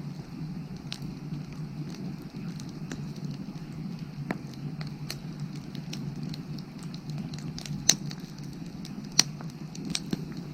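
Firewood burning, with steady crackling and scattered sharp pops; two louder pops come in the second half.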